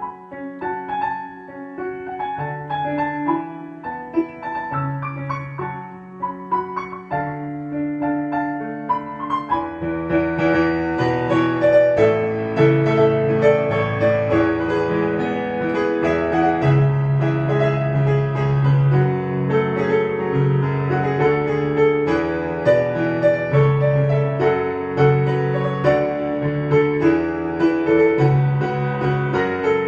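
Background piano music that grows fuller and louder about ten seconds in.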